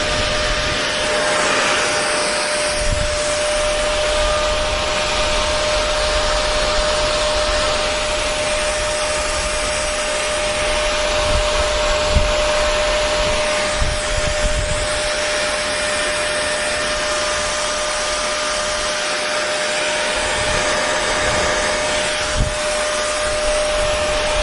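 Hair dryer running steadily: a continuous rushing of air with a steady motor hum, a few faint low bumps here and there.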